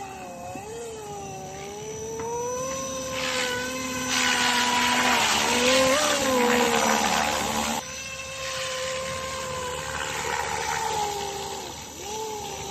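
Motor and rotor whine of a 500-size scale RC helicopter; the pitch wavers, then rises and holds. A louder rushing sound joins it in the middle and cuts off abruptly, after which the whine carries on.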